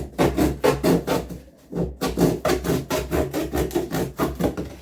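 Small serrated knife sawing through cardboard in quick back-and-forth strokes, about five a second, with a short pause about a second and a half in.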